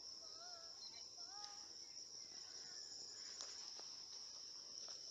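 Insects droning steadily, one continuous high-pitched shrill with no break. Two faint, short wavering calls sound in the first second and a half.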